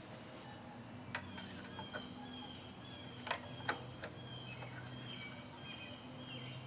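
A few faint clicks and taps from handling, the two loudest a little over three seconds in, with small birds chirping repeatedly in the background.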